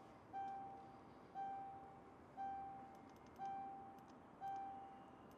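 Vehicle warning chime repeating about once a second, each note a single ringing tone that fades before the next. The door is open with the ignition on.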